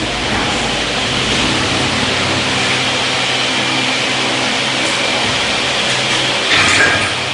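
Induction brazing rig for saw-blade segments running: a steady mechanical hum and hiss with a faint high whine, and a short louder burst of hiss about six and a half seconds in.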